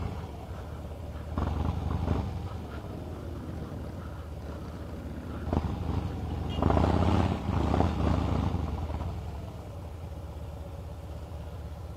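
Harley-Davidson V-twin motorcycle engine running at low speed. It swells louder twice, about a second and a half in and again around seven seconds.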